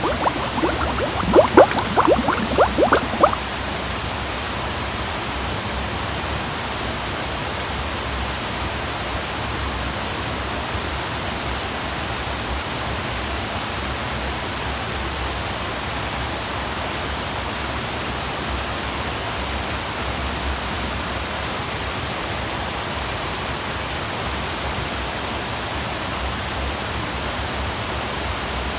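Steady rush of a waterfall, an even hiss that does not change. For about the first three seconds, a run of quick gurgling pops sits over it and then stops abruptly.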